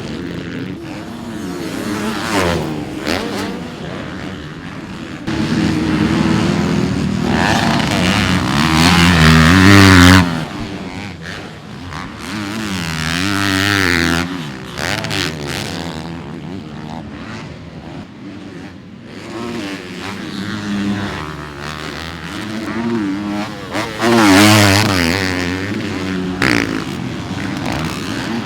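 Yamaha motocross dirt bike's engine revving hard on the track, its pitch climbing and dropping over and over. It is loudest around ten seconds in and again about 24 seconds in, with sudden jumps in loudness in between.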